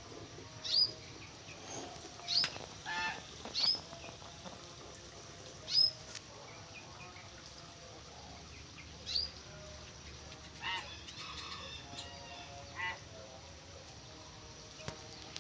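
Caged birds calling: a string of short, sharp, high calls, each dropping quickly in pitch, every second or few, with a few lower calls in between.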